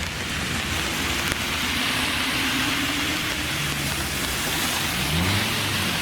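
Classic Japanese car's engine running, its pitch climbing as it revs up about five seconds in, under a steady hiss.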